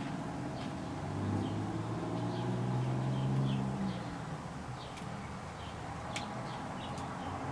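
Small birds chirping in short, scattered calls over a low rumble that swells for the first few seconds and then fades. A few sharp clicks come in the second half.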